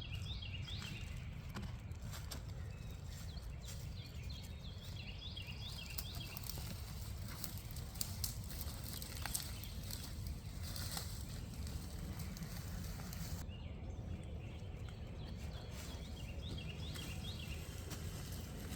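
Quiet outdoor ambience: a bird chirps in short phrases three times, over a low steady rumble, with a few faint clicks in the middle.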